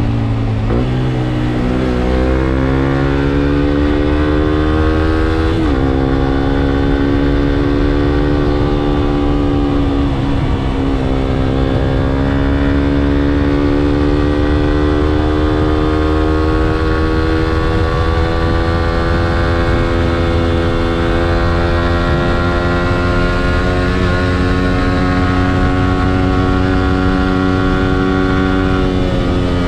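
Suzuki GSX-S125's single-cylinder engine pulling through the gears on the move: the pitch rises, drops sharply at gear changes about one, six and ten seconds in, then climbs slowly for a long stretch before falling near the end, over a low rush of noise.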